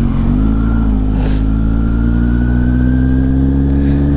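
Kawasaki Z800's inline-four engine pulling steadily under acceleration while riding, its note rising slowly in pitch.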